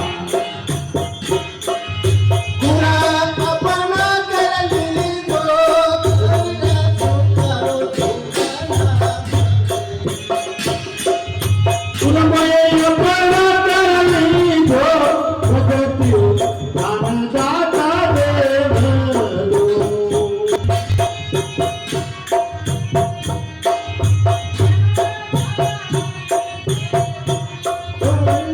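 A Rajasthani devotional bhajan sung in a strong voice, holding long ornamented notes, over a steady hand-drum beat and constant jingling percussion.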